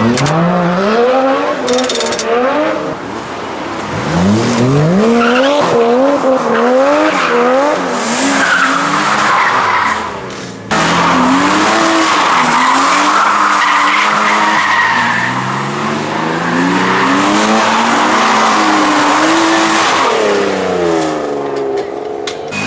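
A car's engine revving up and down repeatedly as it spins its tyres, with a loud, steady tyre screech from about eight seconds in.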